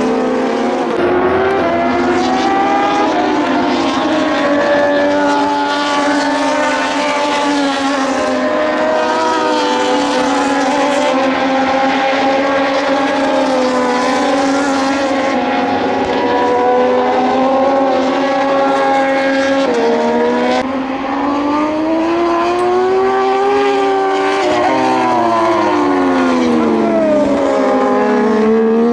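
Several Moto2 racing motorcycles with Triumph 765 cc three-cylinder engines going past at speed, their engine notes overlapping, rising under acceleration and falling on the brakes and downshifts. There is a sudden drop and jump in pitch around two-thirds of the way through, then notes rising and falling across each other near the end.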